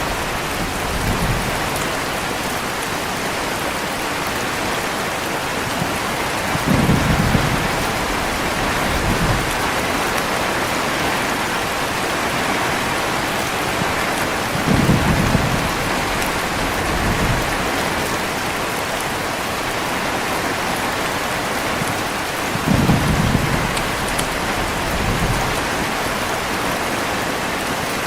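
Heavy rain falling steadily, with low rumbles of thunder about every eight seconds, each followed by a weaker rumble a couple of seconds later.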